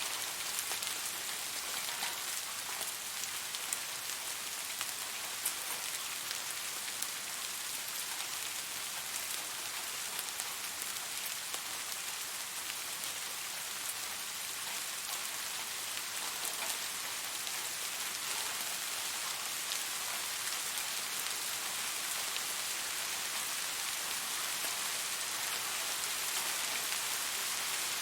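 Steady rain falling on a surface, a dense even hiss with fine individual drop taps throughout.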